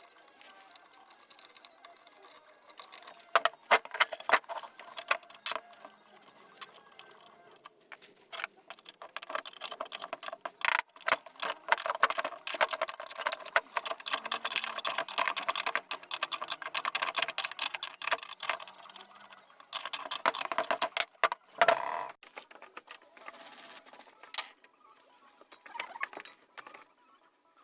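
Hand work on an old steel leg vise: small metal parts clinking, ticking and scraping in quick runs, busiest through the middle, with a few sharper metal knocks.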